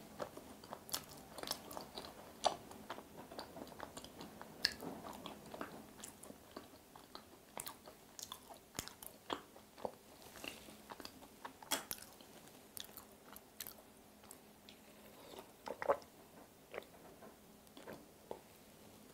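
Close-miked mouth sounds of chewing a soft macaron with a red-bean and butter filling: faint, irregular wet clicks and smacks, several a second.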